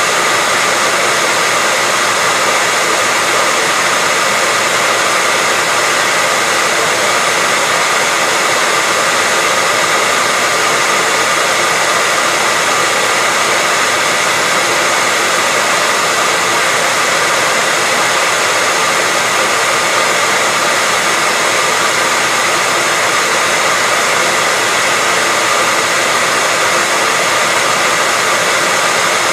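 Hair dryer running steadily: an even, unbroken rush of air with a faint steady motor whine.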